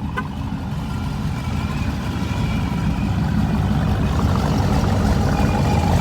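Car engine running with a deep rumble that grows steadily louder.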